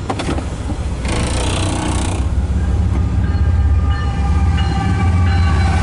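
Diesel locomotives at the head of a loaded coal train approaching and arriving alongside, a heavy low engine rumble building in strength, with faint steady tones over it from about halfway through.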